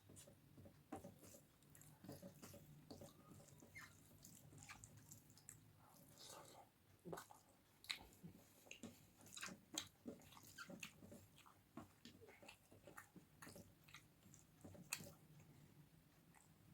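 Faint mouth sounds of a person chewing and eating rice with dal and curry: irregular wet smacks and small clicks, a few of them sharper than the rest.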